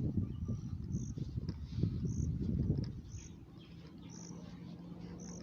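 A short, high insect chirp repeating about once a second, over low rumbling noise that dies away about three seconds in, leaving a faint steady hum.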